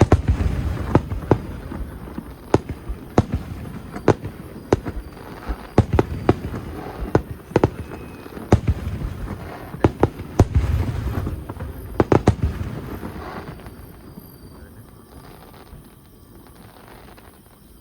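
Aerial fireworks bursting in quick, irregular succession, sharp bangs over a low rumble with echoes, for about thirteen seconds, then dying away to a few scattered faint pops near the end.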